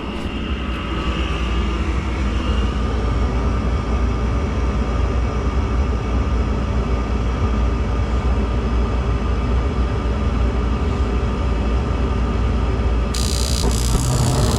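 Gas furnace running on a call for heat, a steady motor hum. Near the end a hiss joins in.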